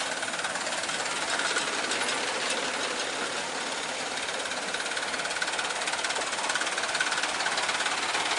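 Truck's diesel engine running steadily.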